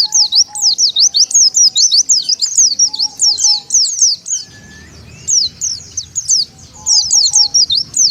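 White-eyes (pleci) twittering: a dense run of quick, high chirps that sweep down and up in pitch, several a second, thinning out briefly a little past the middle.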